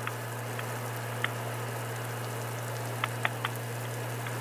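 Rain hissing steadily on a moving motorcycle rider's helmet and camera, with a handful of sharp ticks of single drops striking, over a steady low hum.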